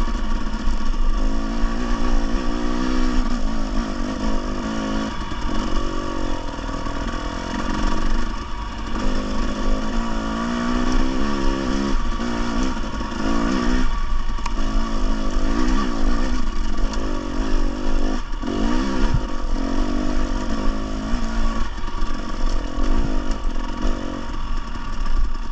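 Dirt bike engine revving up and down continuously as it is ridden, its pitch rising and falling with the throttle every second or two.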